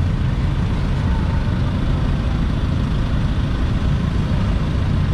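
Steady low rumble of a motor vehicle's engine idling.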